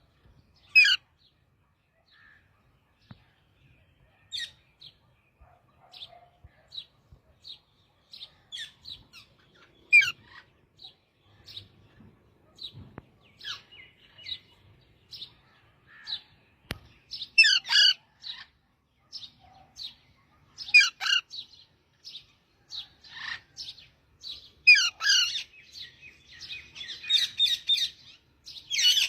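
A parrot calling in a string of short chirps, with a louder harsh squawk every few seconds and a run of rapid chatter near the end.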